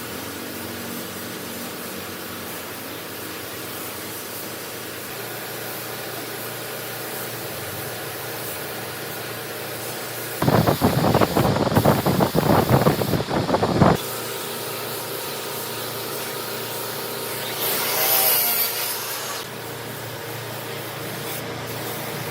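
A hand tool working wood, with a few seconds of rapid back-and-forth scraping strokes about halfway through, over a steady background hiss. Near the end a short wavering whine rises and fades.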